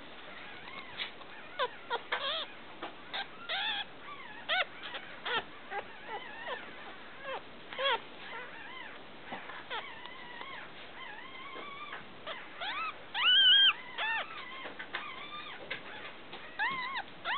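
Newborn miniature dachshund puppies, four days old, whimpering and squeaking in many short, high cries. The loudest and longest cry comes about two-thirds of the way through.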